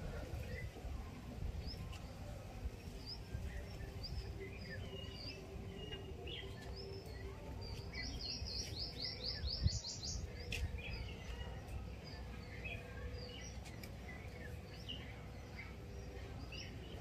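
Small birds chirping and calling on and off, with a quick trill of about eight rapid notes around eight to ten seconds in, over a faint low rumble. A single soft knock comes just before ten seconds.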